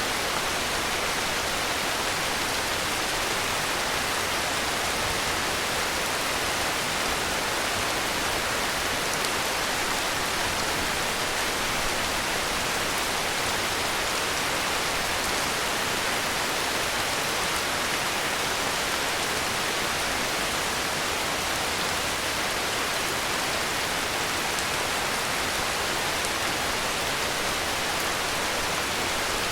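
Heavy rain falling as a steady, even hiss, with no separate drops, thunder or other events standing out.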